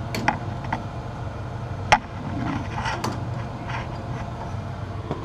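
Hand tubing cutter being turned around a copper water pipe, its wheel scraping and clicking on the metal as it cuts through, with a sharp click about two seconds in, over a steady low hum.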